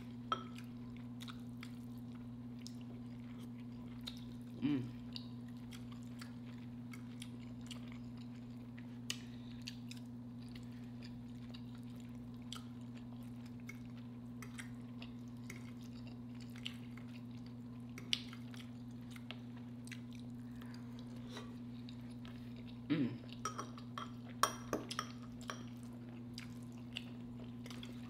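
Close-miked chewing of braised beef short ribs, with scattered small clicks of forks against glass plates, over a steady low hum. The eating sounds are louder about five seconds in and again near the end.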